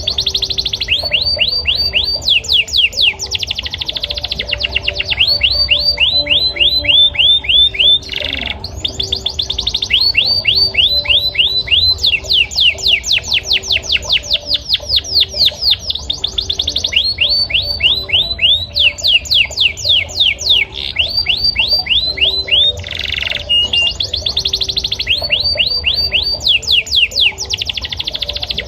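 Male yellow canary singing: long trilled phrases of rapid, high repeated notes, each run switching to a new note every second or two, with a short noisy note about eight seconds in and again near twenty-three seconds.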